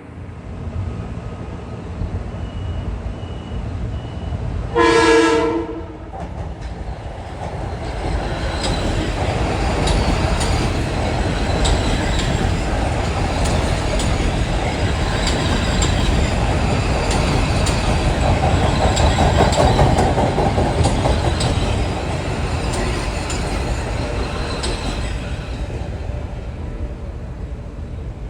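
Metro-North commuter train sounding one short horn blast, then rolling through the station with a loud rumble and wheels clacking over the rail joints, the noise easing off near the end.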